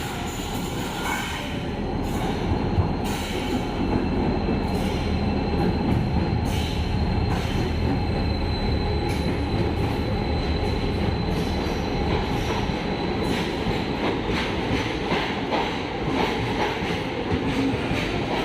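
Passenger train rolling into a station platform: a steady rumble of coaches passing, with a thin, high wheel squeal for several seconds in the middle.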